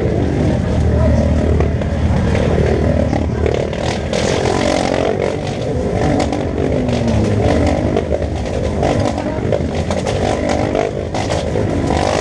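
Motorcycle engines running with a steady low rumble, with faint voices behind.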